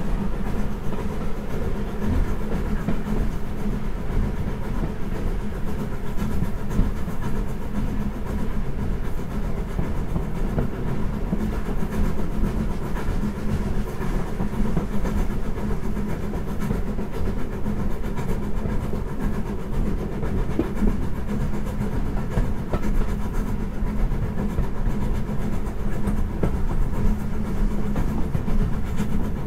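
Heritage railway passenger train in motion: a steady low rumble of carriage wheels running on the rails.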